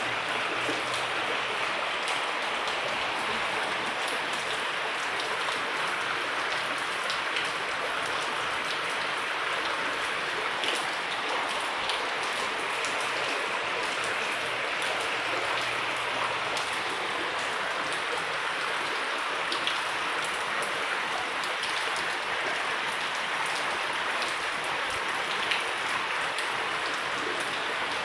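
Heavy rain falling steadily, an even wash of sound with a few sharper drop impacts standing out now and then.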